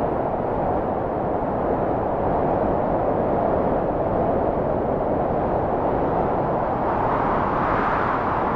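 Wind blowing steadily, an even rushing noise that swells slightly near the end.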